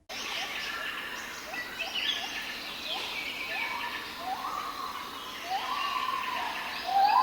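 Birds chirping and calling over a steady outdoor background hiss, with short rising calls repeating throughout.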